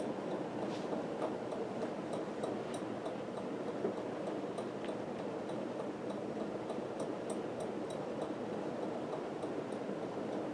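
Homestead WhisperFan II ceiling fan running steadily on high speed, a constant air-and-motor hum with faint, irregular ticks throughout.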